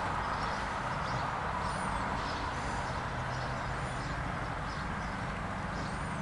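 A bird repeating a short, high, arching call about every two seconds over a steady low hum and even background noise.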